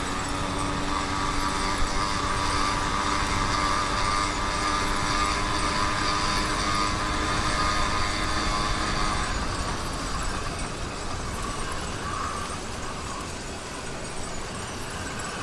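YD100 two-stroke motorized-bicycle engine running steadily, then cutting out about two thirds of the way through, leaving only a rushing noise.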